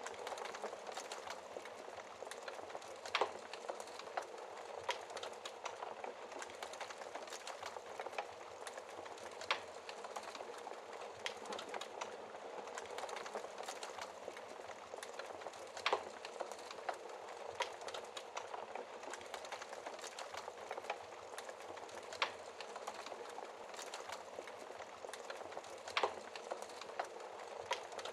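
Wood fire in a fireplace crackling steadily, with a dense run of small crackles and a louder pop every few seconds.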